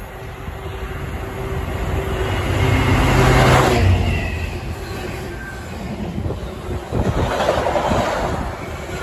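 Freight train passing close by: the locomotive's noise builds to its loudest about three and a half seconds in, with a short falling whine as it goes by. Then the intermodal container wagons follow, rumbling and clicking over the rail joints.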